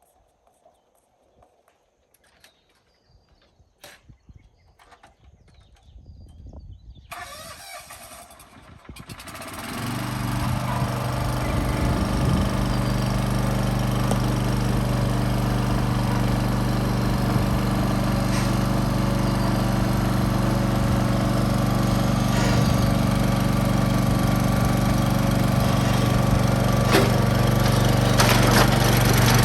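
A few faint clicks, then an engine starts about nine seconds in and settles into a steady, even-pitched running.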